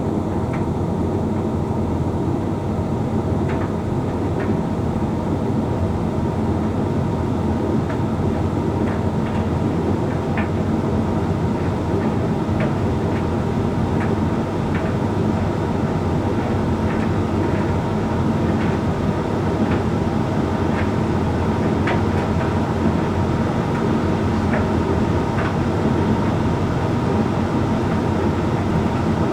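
Hoover Link X Care condenser tumble dryer running: a steady hum of the motor and fan with the drum turning, and light, irregular clicks from the load tumbling inside.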